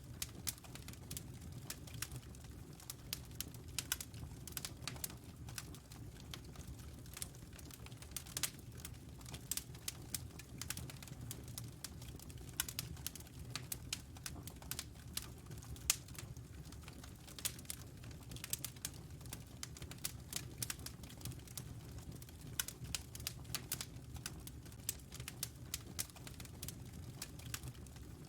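Wood fire burning in a fireplace: dense, irregular crackling with many sharp pops and snaps over a steady low rumble of the flames.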